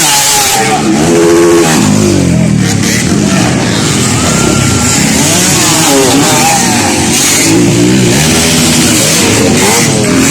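Several dirt bike engines revving hard, overlapping, their pitch repeatedly climbing and dropping back as the riders accelerate and shift.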